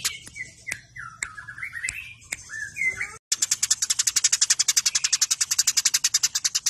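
Eurasian tree sparrows calling in a fight: a few gliding chirps, then, after a brief break about three seconds in, a fast, tight run of sharp chirps at about ten a second.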